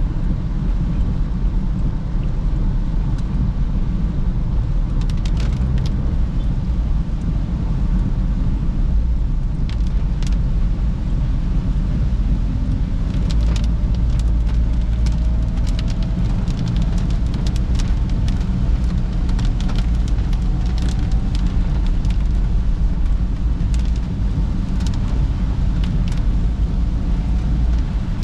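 Cabin noise of a Perodua Bezza driving: a steady low rumble of engine and tyres, with scattered ticks of raindrops hitting the car's body and windscreen.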